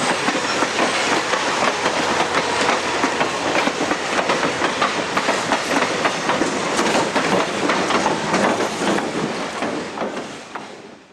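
Train rolling past, its wheels clicking over the rail joints, then fading away near the end.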